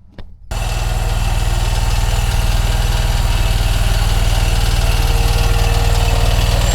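Engine of small earthmoving machinery running steadily, cutting in suddenly about half a second in.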